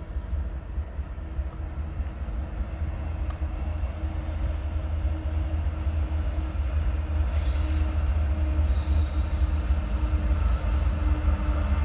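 CN diesel locomotive approaching on the main line: a steady low engine rumble with a constant hum, growing gradually louder as the train nears.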